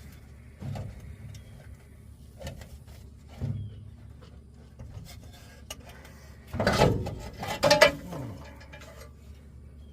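Knocks and clattering from hand work on truck parts: a few separate thumps, then a louder rattling, scraping clatter about seven seconds in.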